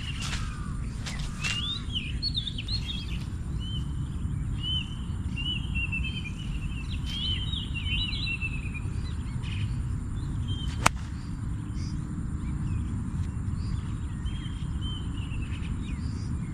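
Birds chirping, many short calls, over a steady low outdoor noise. About eleven seconds in there is a single sharp click.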